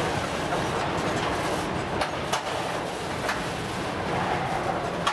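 Freight train of open gondola wagons rolling past: a steady rumble of steel wheels on the rails, with a few sharp clacks as the wheels cross rail joints.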